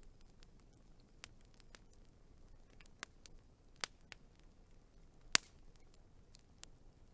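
Wood fire crackling: scattered sharp pops and snaps over a faint low hiss, the loudest pop a little over five seconds in.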